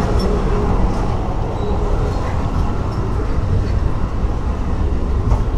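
Steady rumble of a moving Amtrak Auto Train bilevel passenger car, heard from inside: wheels on the rails and the car's running noise at speed.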